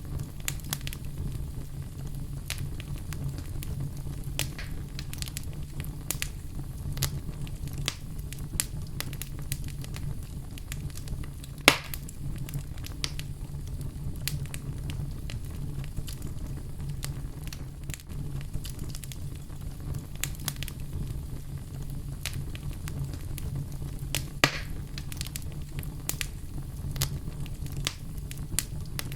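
Fire in a fireplace crackling steadily, with a low rumble of flames under frequent small pops. Two louder pops stand out, about twelve seconds in and again near twenty-five seconds.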